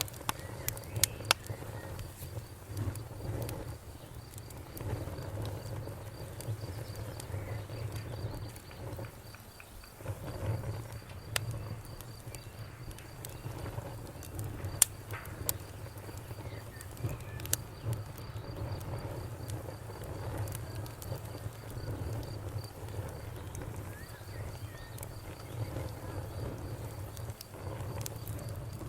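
Campfire burning, with sharp crackles and pops scattered through over a low steady rumble of the flames. A faint, high, rapidly pulsing trill runs underneath.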